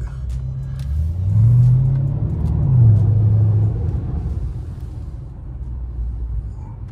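Car engine rumbling as the car accelerates at low speed, heard inside the cabin with the windows up. Its pitch rises about a second in and drops back near three seconds, with a hiss of water spray from passing cars on the flooded road.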